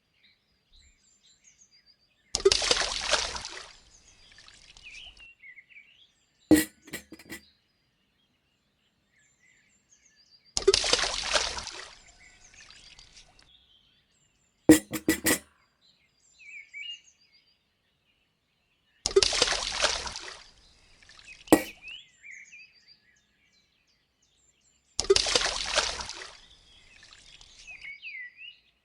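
Water splashing out in four short bursts of about a second each, several seconds apart, with sharp clicks between them and faint bird chirps in the gaps.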